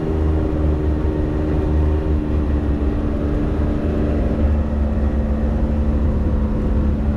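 Can-Am Maverick X3 side-by-side's turbocharged three-cylinder engine running at a steady, moderate speed while driving a trail, with a deep rumble and a slight change in engine pitch about halfway through.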